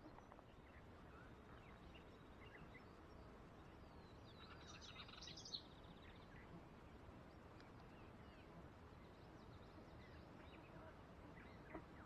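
Near silence with faint, scattered bird chirps, and a brief cluster of clearer, high bird notes about five seconds in, ending with a single soft click.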